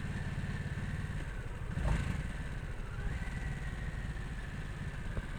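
Harley-Davidson Nightster 975 V-twin engine running as the motorcycle slows and is shifted down through the gears, with a brief louder burst about two seconds in.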